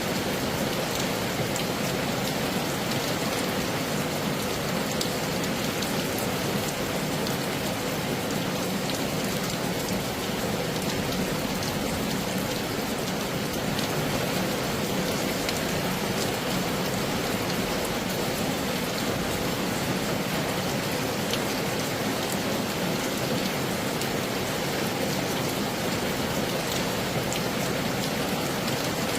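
Heavy rain falling steadily: a dense, even hiss with fine scattered drop ticks.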